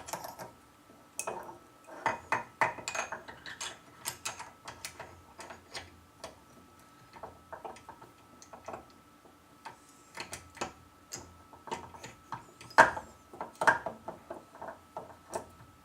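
Small metal lathe headstock parts clinking and tapping against each other and the casting as they are handled and fitted, in irregular sharp clicks. The loudest knock comes about two-thirds of the way through.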